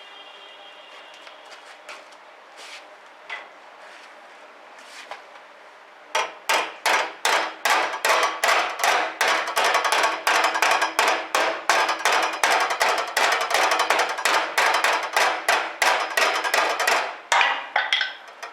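A hammer striking sheet steel: a few separate knocks, then about six seconds in a long run of quick, steady blows, about three a second, each with a metallic ring, stopping shortly before the end.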